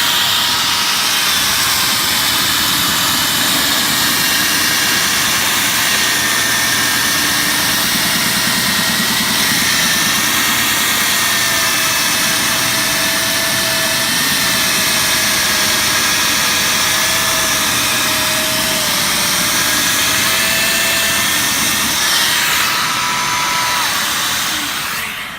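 Circular saw running steadily as it rips a wooden cabinet filler along its scribe line. Its whine sags slightly under load through the cut, and the saw cuts off near the end.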